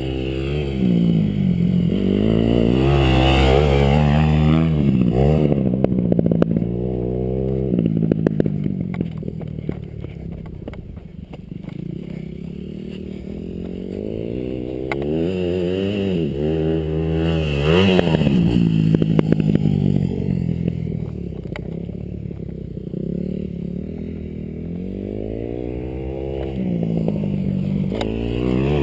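Dirt bike engine revving up and down as it is ridden, the pitch climbing and dropping with each throttle and gear change. It is loudest twice, a few seconds in and again about two-thirds of the way through, and fades in between as the bike moves farther off.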